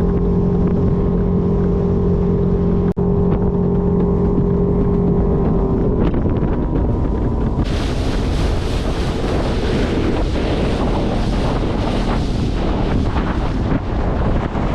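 Boat motor running with a steady hum that stops about six seconds in. From about eight seconds in, loud wind buffets the microphone, with a rush of water.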